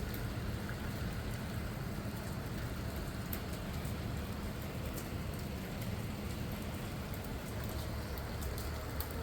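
Steady rain falling, with scattered sharp drop ticks, over a low steady hum.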